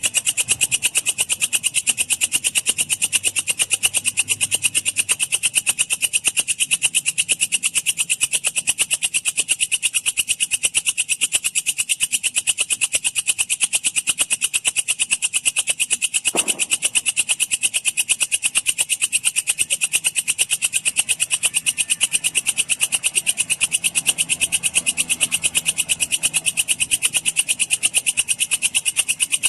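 Walang kecek bush cricket (katydid) calling: a continuous, high-pitched rapid chirring made of evenly spaced pulses, about ten a second, steady in pitch and level. A single faint knock is heard about halfway through.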